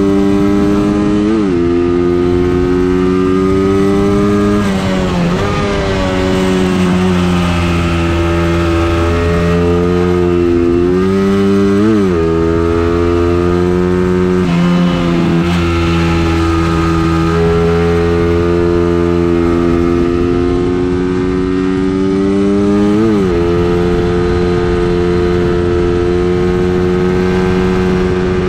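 Engine of a vehicle lapping a race circuit under load, its pitch slowly rising and falling, with quick sharp dips in pitch several times as the throttle or gear changes.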